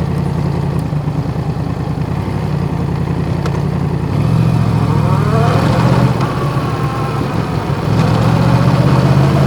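Yamaha MT-10's crossplane inline-four with Akrapovic exhaust running at low revs while riding, then picking up with a rising pitch about halfway through as the bike accelerates.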